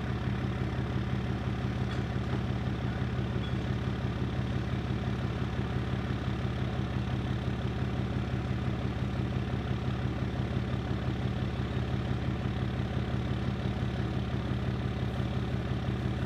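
An engine idling steadily, with an even fast pulse.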